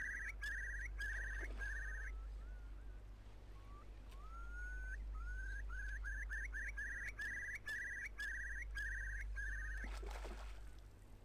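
A bird calling twice, each time with slow rising whistles that quicken into a run of buzzy trilled notes. About ten seconds in, a lure splashes down on the water.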